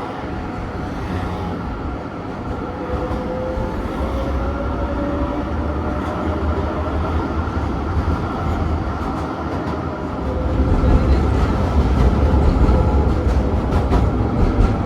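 Electric tram running along its rails, heard from inside the car: a steady low rumble with a thin whining tone that slides in pitch. It grows louder about ten seconds in, with a few clicks near the end.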